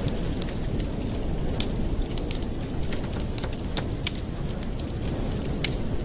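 Campfire crackling: irregular sharp snaps and pops of burning wood over a steady low rumble.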